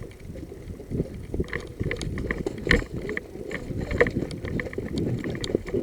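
Footsteps and the rustle and knock of carried gear as a player walks over rough ground, with scattered clicks and one sharper knock near the middle.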